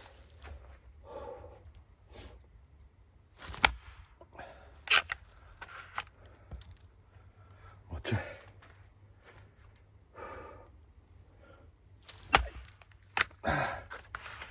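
Firewood being split with a blade: about five sharp chopping strikes at irregular intervals, some followed by a brief splitting crack of the wood.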